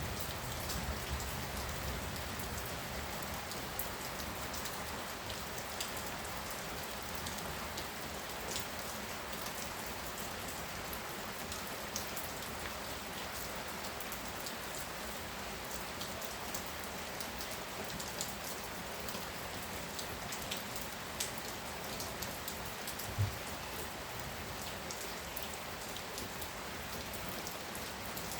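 Heavy rain pouring steadily, with scattered sharper drops ticking through it and one brief low thump about three-quarters of the way through.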